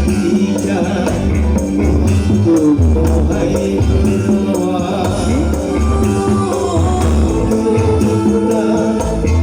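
Loud music with heavy, pulsing bass and a jingling tambourine-like percussion line, played through a large sound system.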